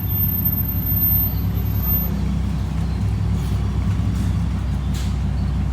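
Steady low engine and road hum of a 2012 Dodge Charger R/T's 5.7 L HEMI V8 cruising, heard from inside the cabin, its exhaust still stock before the resonator and mid-muffler delete.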